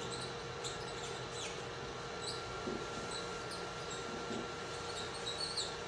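Room tone during a pause in a talk: a steady low hiss with a faint electrical hum, dotted with a few faint high-pitched ticks.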